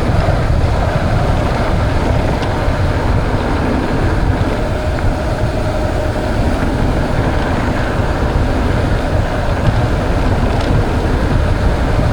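Steady wind buffeting the microphone, with the rumble of mountain-bike tyres running over a trail.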